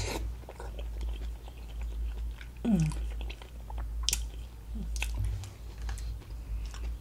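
A person chewing a sauce-dipped boiled potato with wet mouth clicks, and a short falling "mmm" of enjoyment about three seconds in.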